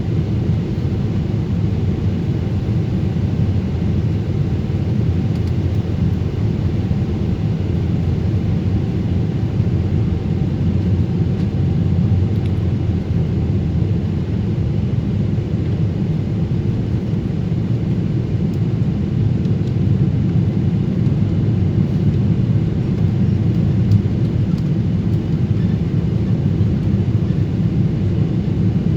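Steady low rumble of a Boeing 777's engines and rushing air, heard inside the passenger cabin in flight on the landing approach.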